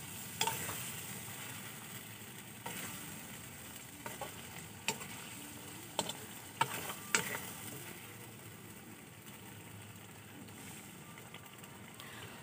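Finger-shaped flour dumplings sizzling in masala gravy in a kadai on a medium flame, with a little water just added, while a metal spatula clinks and scrapes against the pan about six times in the first seven seconds; after that only a soft steady sizzle.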